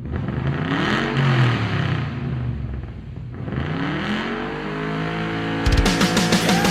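Motorcycle engines accelerating, the engine note rising then falling twice. Rock music with guitar comes in near the end.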